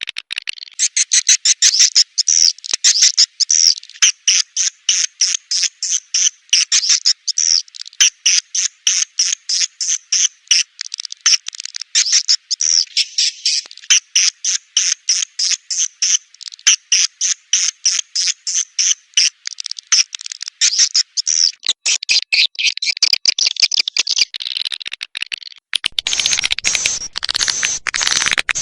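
Swiftlet twittering calls, a fast, steady run of short high chirps at about three a second, of the kind played from speakers in a swiftlet house to lure the birds. A denser chatter with a hiss joins in near the end.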